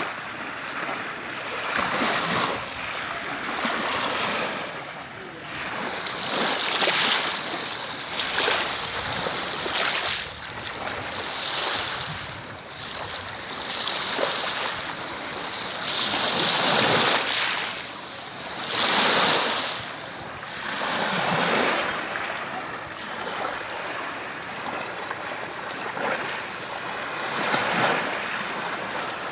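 Sea waves washing onto a beach, the rushing hiss swelling and ebbing every few seconds.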